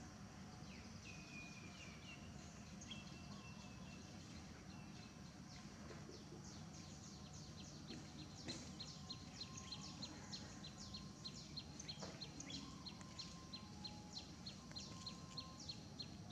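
Faint ambience with a steady low rumble and birds chirping. A few thin whistles come first, then from about six seconds in a regular run of short, high, falling chirps, about three a second.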